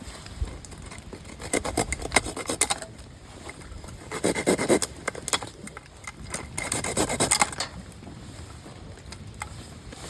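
Wood being scraped or rasped in three separate bursts, each about a second long.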